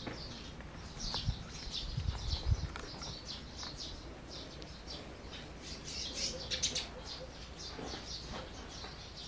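Small birds chirping repeatedly, a steady scatter of short high calls, busiest near the middle. A few dull low thumps come between one and three seconds in.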